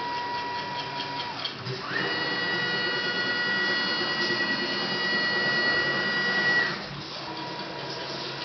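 CNC milling machine's axis drive motors whining as the machine moves, the tone gliding up to a higher pitch about two seconds in, holding steady, then gliding back down to a lower tone near the seven-second mark.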